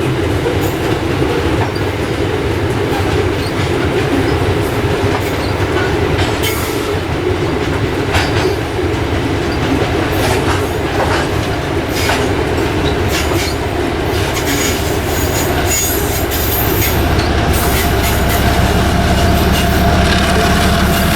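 Freight train wagons rolling past on the rails: a steady rumble with clatter and scattered high-pitched wheel squeal. Near the end the steady drone of a diesel locomotive's engine comes up under it.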